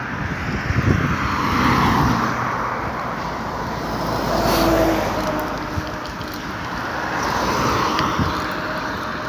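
Steady vehicle and wind noise, swelling and easing every few seconds.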